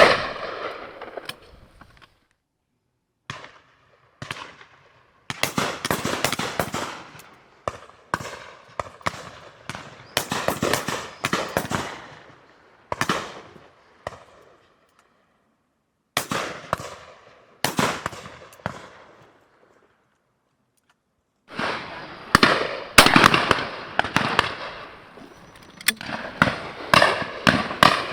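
Shotguns firing in a ragged, irregular series of shots from several guns, each shot trailing off in an echo. The firing stops for about a second soon after the start and again for a moment past two-thirds of the way through, then comes thick and fast again near the end.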